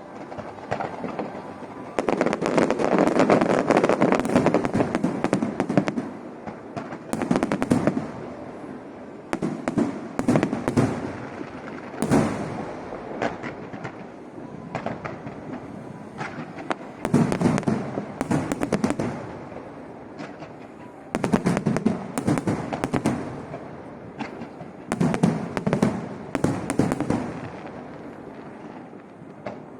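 Aerial fireworks going off in repeated volleys. Each volley is a cluster of rapid bangs and pops, with short lulls between volleys. The longest and loudest volley comes a couple of seconds in.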